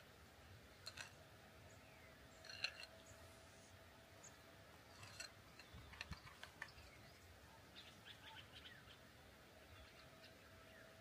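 Faint, scattered bird chirps, short calls here and there with a quick run of them near the end, against near silence.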